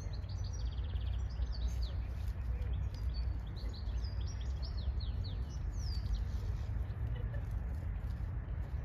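Songbirds singing, several quick chirps and short falling whistles overlapping, over a steady low rumble.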